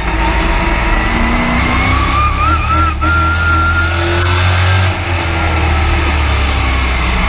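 A Midwest Truck Series race truck's engine and drivetrain heard from inside the cab at racing speed. There is a deep rumble and a high whine that climbs slowly in pitch and wavers briefly. The sound drops for a moment about five seconds in, then picks up again.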